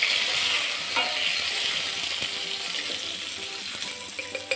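Chopped tomatoes sizzling in hot oil in a stainless steel kadhai as they are stirred with a wooden spatula, with a single knock about a second in. The sizzle is loudest at first and eases off toward the end.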